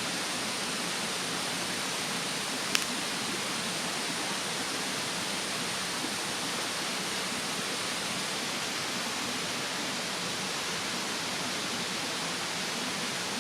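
Steady rushing of a mountain stream, with a single sharp pop from the wood fire about three seconds in.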